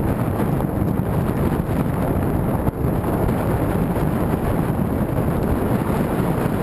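Headwind buffeting the microphone: a loud, steady low rumble of wind noise.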